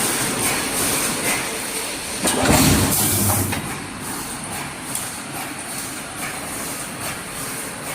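Automatic wire mesh welding machine running, with repeated mechanical clacks and a louder, deeper clunk about two and a half seconds in.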